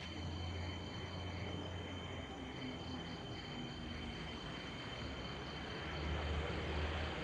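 Night insects, crickets, chirping: a steady high trill with a faint pulsing chirp about twice a second, over a low steady rumble.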